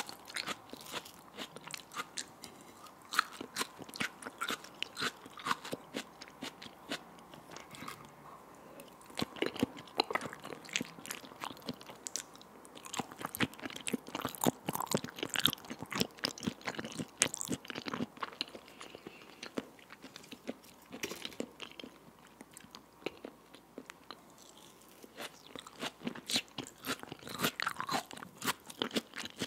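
Close-miked eating sounds of raw salmon sashimi chewed with sliced raw onion: crisp crunches and wet chewing clicks in an irregular stream, thinning out briefly about three-quarters of the way through.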